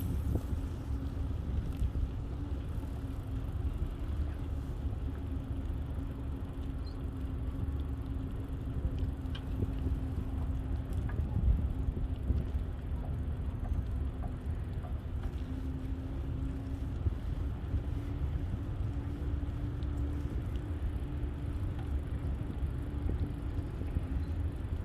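Bicycle riding along a paved path: a steady low rumble of tyres and wind on the microphone, with a steady hum and a few small ticks.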